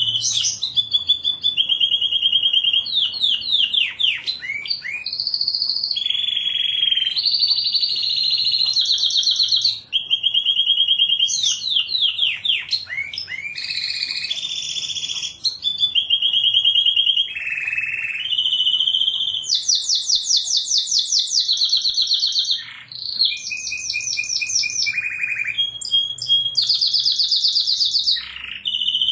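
Domestic canary singing a continuous song of rapid trills and rolls, each run of fast repeated notes switching to a new pitch every second or two.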